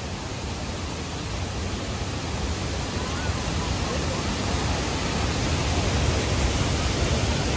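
Waterfall rushing: a steady wash of noise that grows gradually louder.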